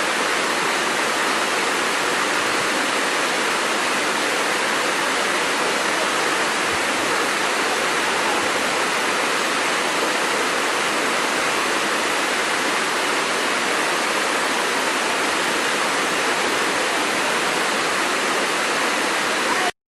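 Waterfall rushing steadily, an unbroken wash of water noise with little bass that cuts off abruptly just before the end.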